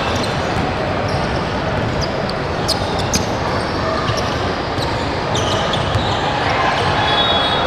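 Basketball being dribbled on a gym floor amid steady, echoing crowd chatter, with a few short, sharp high sounds scattered through.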